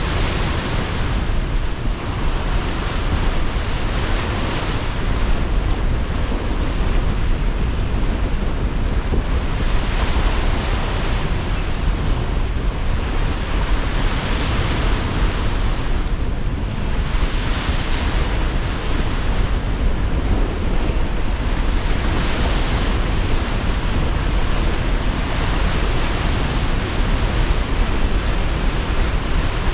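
Sea surf breaking in strong wind: a steady rushing noise with a deep wind rumble, and waves swelling and washing in every few seconds.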